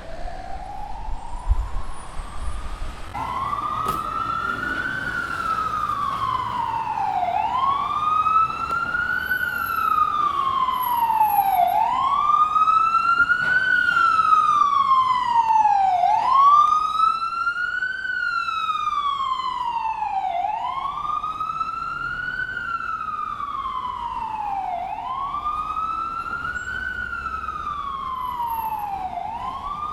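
Ambulance siren wailing in slow cycles, each rising over about two seconds and falling over about two more, repeating roughly every four seconds. It grows louder toward the middle and then eases slightly.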